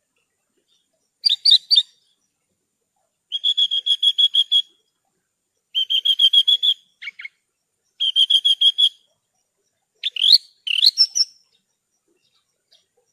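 Javan bush lark (branjangan) singing: a series of short phrases of fast repeated chirps with brief pauses between them, ending in a few rising notes.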